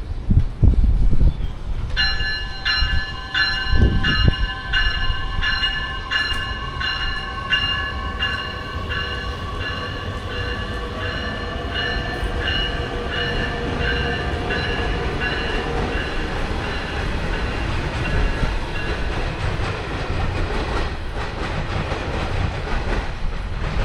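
Train running past with a bell ringing steadily about twice a second, starting about two seconds in and fading away near the end, over the train's low rumble and clatter. Two low thumps near the start.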